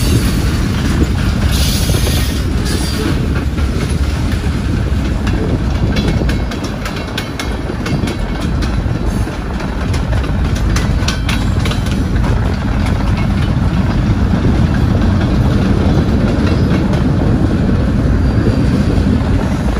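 Freight train rolling past: steel wheels clacking over rail joints with a steady low rumble.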